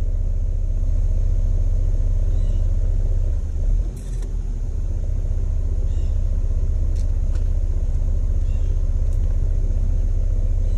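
A Jeep's engine runs with a steady low rumble, heard from inside the cab. There is a single knock about four seconds in.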